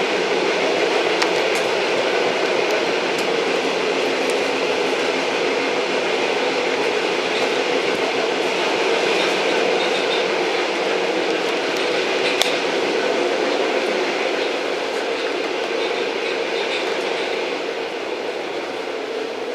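Old train running steadily along the track: a continuous rumbling rush with a steady hum underneath and an occasional sharp click, easing slightly quieter near the end.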